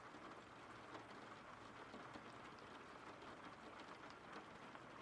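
Faint, steady rain: an even patter with small scattered drop ticks.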